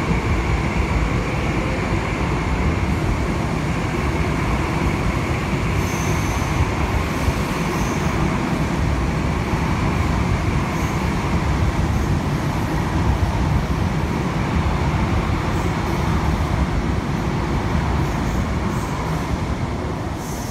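High-speed electric bullet train rolling past a station platform: a steady rumble and rush of carriages going by, with a faint steady whine, easing slightly near the end.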